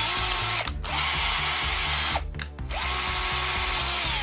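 Tim & Brown 900S 18 V cordless hammer drill driver running free in short bursts: the motor whine rises as it spins up, holds steady, then stops, twice stopping and restarting.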